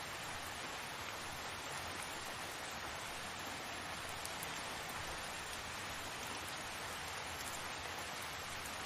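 Steady rain falling: an even hiss with faint scattered ticks of individual drops.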